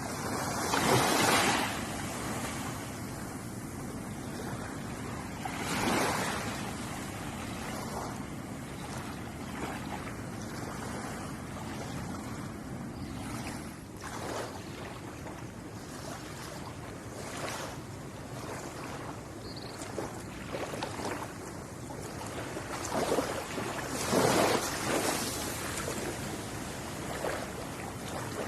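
Ocean waves breaking and washing up on the shore: a steady hiss of surf with louder waves about a second in and around six seconds, and a bigger run of breakers near the end.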